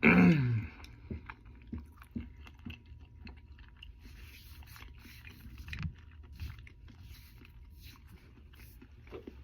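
A person chewing food close to the microphone: soft, irregular mouth smacks and clicks over a low steady hum, after a short loud vocal sound at the very start.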